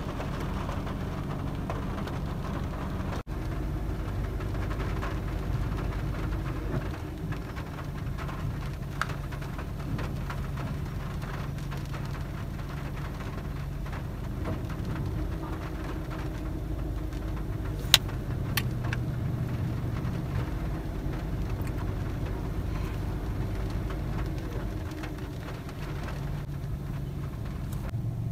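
Steady rain with a continuous low rumble under it, like traffic or an engine, and two sharp clicks about eighteen seconds in.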